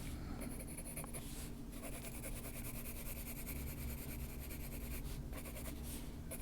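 Coloured pencil scratching on paper in quick, repeated shading strokes, over a faint steady hum.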